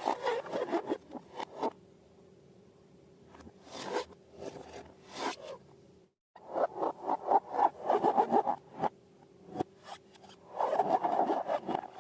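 Slime being handled and mixed: bursts of rapid sticky clicks and rubbing, quieter for a stretch early on and cutting out briefly about six seconds in.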